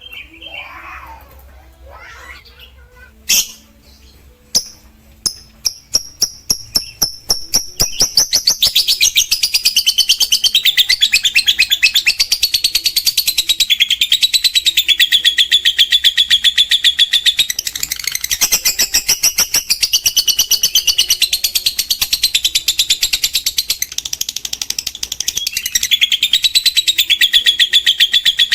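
Lovebird's long chattering trill (ngekek). It starts with a few sharp chips that quicken into rapid pulses, and from about eight seconds in it runs on as a fast, continuous, high rattling trill.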